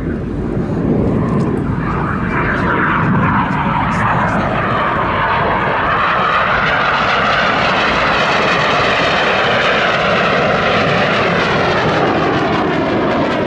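BAE Hawk T1 jets of the Red Arrows Synchro pair flying past, their Rolls-Royce Turbomeca Adour turbofans making loud, continuous jet noise. The noise builds about a second in and then holds, with a slowly sweeping, shifting tone as the aircraft pass.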